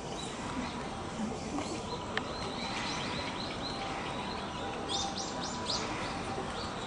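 Small birds chirping in short, high, downslurred notes, with a quick run of four or five notes about five seconds in, over steady background noise and a faint hum.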